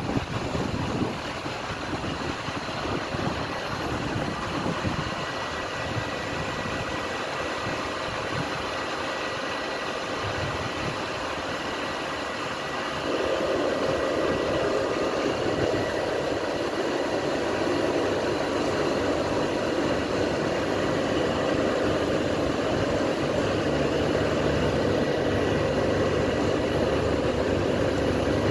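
Passenger train standing at a station platform with its engine running, a steady hum. It gets louder about thirteen seconds in.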